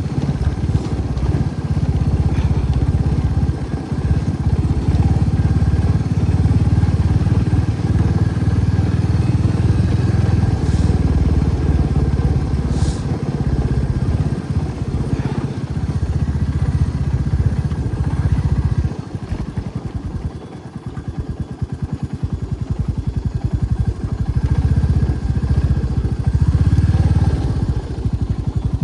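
Motorcycle engine running steadily, dropping off for a few seconds about two-thirds of the way through, then picking up again.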